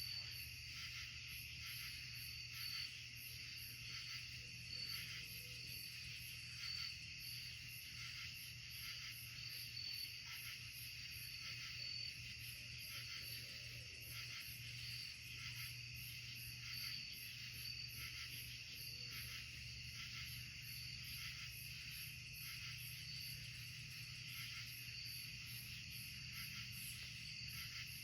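Night insect chorus of crickets: a steady, continuous pulsing trill, with no owl or coyote calls standing out.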